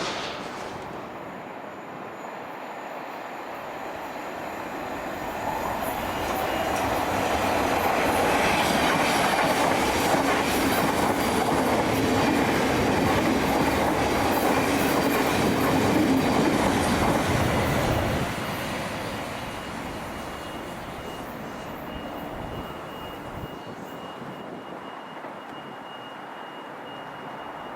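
Electric multiple-unit train running past the platform. It builds over a few seconds, stays loud for about twelve seconds, drops off sharply about eighteen seconds in, then fades away.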